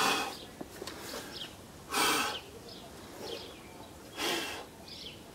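Small birds chirping in the background, with three short rushes of noise about two seconds apart.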